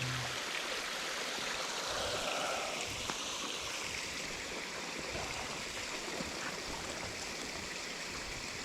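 Creek water rushing steadily down over rocks in a small woodland waterfall.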